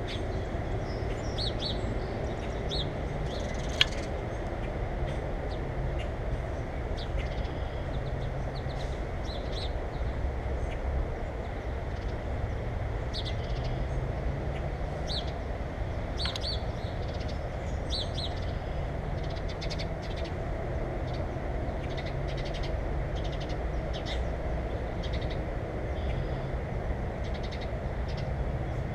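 Birds chirping, many short high calls scattered throughout, over a steady low rumble. A single sharp click about four seconds in.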